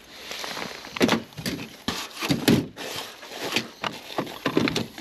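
Irregular knocks, thumps and rustling as someone shifts about and handles things, with a few sharp bangs standing out.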